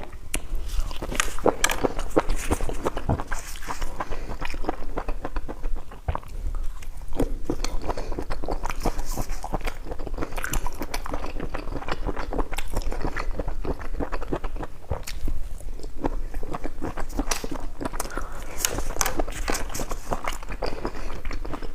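Close-miked eating: a person biting and chewing food, a dense stream of small wet clicks and smacks.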